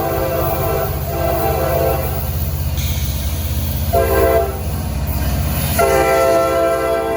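Norfolk Southern freight locomotive's horn blowing a long, a short and a long blast, the pattern of a grade-crossing signal, over the steady low rumble of the diesel locomotive and train.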